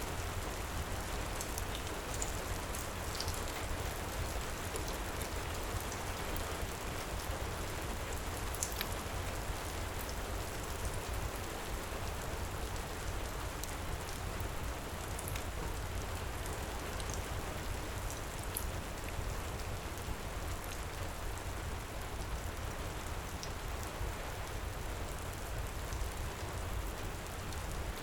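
Steady heavy rain, with scattered sharp crackles and pops of a wood fire in a fireplace over it.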